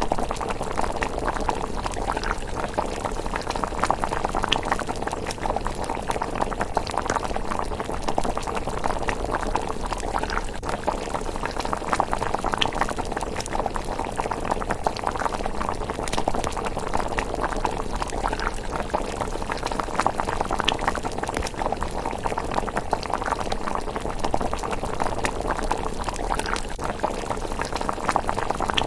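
Thick rice porridge simmering in a pot: a steady, dense run of small bubble pops and blips.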